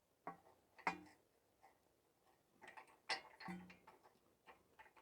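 Faint, irregular metallic clicks and knocks of hand tools handled against suspension parts, about five in all, one with a brief low ring about three and a half seconds in.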